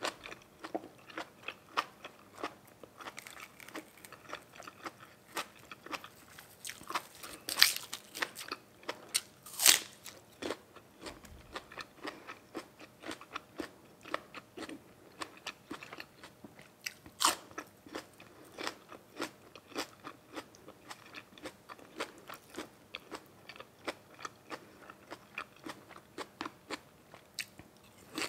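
Close-miked eating: biting into and chewing crunchy food, with irregular sharp crunches throughout and a few louder bites.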